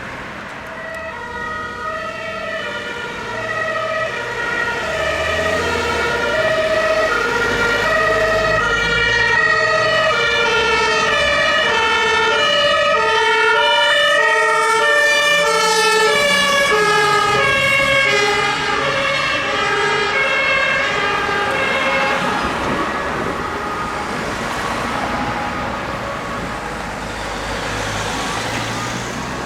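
German two-tone emergency-vehicle siren (Martinshorn) alternating between its two pitches as the vehicle approaches and passes. The siren grows louder towards the middle, drops slightly in pitch as it goes by, and fades away over the last several seconds, over a low vehicle engine rumble.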